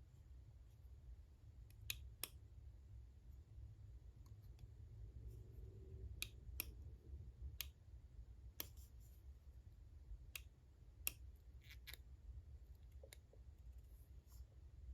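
Faint, scattered clicks and taps of a small device being handled, about a dozen spread irregularly over a low steady hum.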